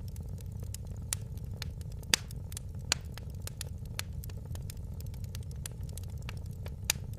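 Wood fire burning in a fireplace: a steady low rumble under frequent sharp crackles and pops. Three louder pops stand out, about two seconds in, about three seconds in, and near the end.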